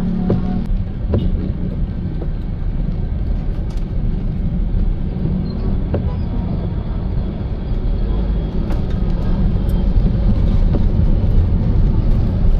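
Car driving in the rain: steady road and tyre noise with a low rumble and a few light ticks, growing a little louder about two-thirds of the way through.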